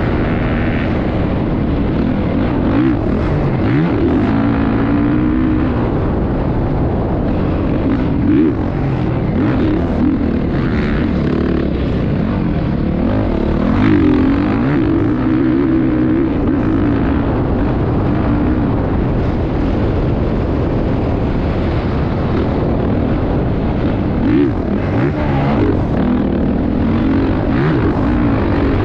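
Motocross dirt bike engine running at full volume, its pitch rising and falling again and again as the throttle is opened and closed.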